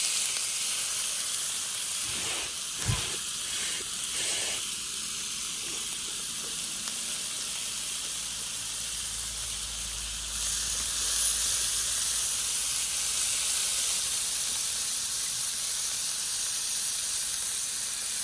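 Meat sizzling over a campfire: a steady, bright hiss, with a few soft knocks about two to four and a half seconds in.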